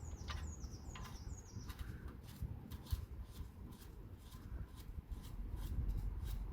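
A small bird chirping: a quick run of short high notes, each dropping in pitch, in the first second or so. Faint scattered clicks and light metallic taps follow.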